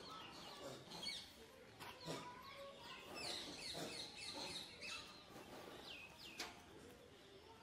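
Faint chirping of small birds: many short, falling calls scattered throughout, with one sharp click near the end.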